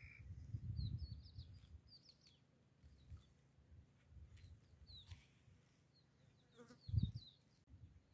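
Faint chirping of small birds: short, quick high calls scattered throughout. Under them is an uneven low rumble, with a louder low thump about seven seconds in.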